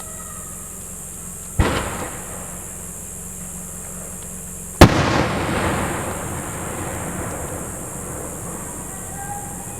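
Two aerial firework shells bursting, about three seconds apart. The second is the louder, with a long rolling echo that fades over several seconds.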